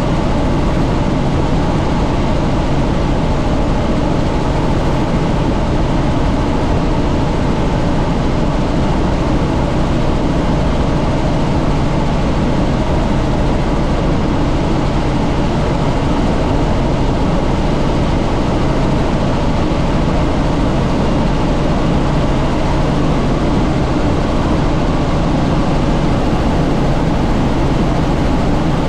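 Helicopter in flight heard from on board: a steady, loud drone of engine and rotor with rushing air, unchanging throughout.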